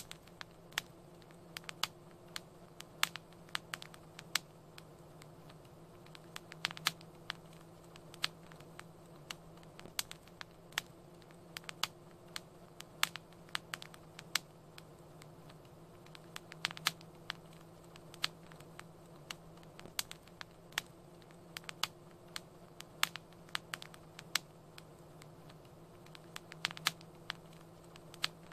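Wood fire crackling: irregular sharp pops and snaps, several a second, over a low steady hum.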